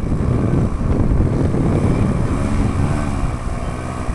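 Strong wind buffeting the microphone in a loud, rumbling roar, with a fainter wavering hum through the middle.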